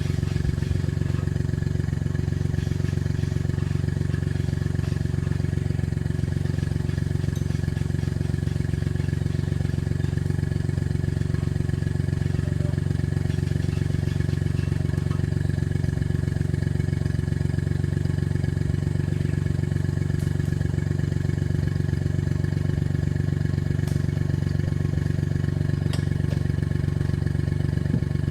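A vehicle engine running steadily at an even speed, a constant low drone with no revving, with a few faint clicks near the end.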